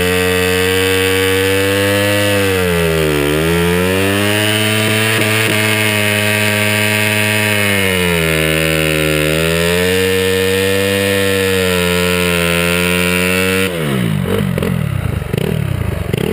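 Honda CRF250R's single-cylinder four-stroke engine held at high revs during a rear-tyre burnout, the pitch sagging and recovering twice. Near the end the revs drop suddenly and the engine falls to a rough, uneven run.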